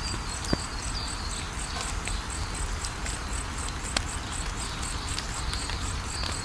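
Wood fire crackling, with scattered sharp pops over a low steady rumble. A cricket chirps steadily, about four or five times a second.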